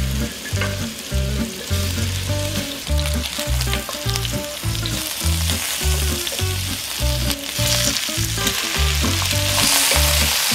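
Spice-rubbed lamb chops sizzling in hot oil in a frying pan while being turned with tongs; the sizzle grows louder near the end. Background music with a steady bass pattern plays underneath.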